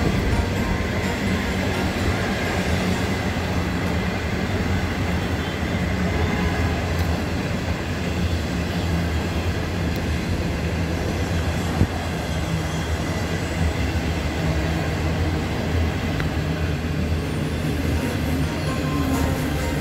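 Passenger train running by on the track, a steady rumble with a low hum and one sharp click near the middle.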